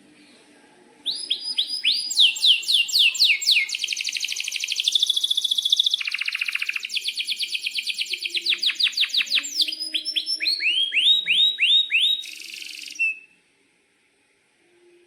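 Domestic canary singing a long, loud song of rapid down-slurred notes and fast trills (rolls), starting about a second in and stopping abruptly near the end.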